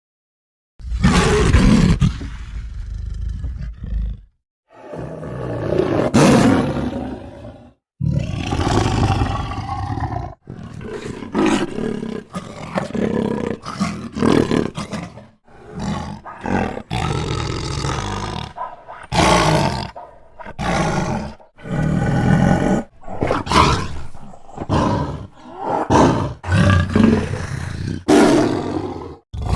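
A run of separate roar sound effects, one after another: the first three each last a few seconds with short silent gaps between, then shorter roars follow close together.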